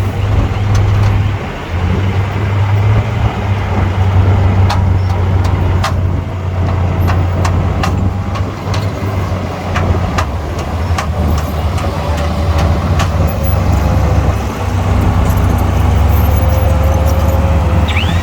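Heavy-equipment diesel engine running steadily with a deep, loud drone, with sharp metallic knocks now and then and a faint whine in the second half.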